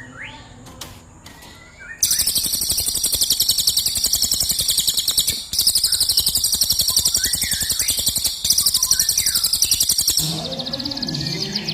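Recorded songbird training song: a few soft chirps, then from about two seconds in a loud, very fast, high-pitched rolling trill (the "rol tembak" phrase), broken twice briefly. Near the end the trill stops and a lower, quieter sound takes over.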